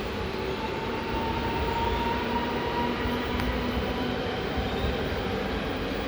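A train running: a steady rumble with faint whining tones that drift slightly in pitch.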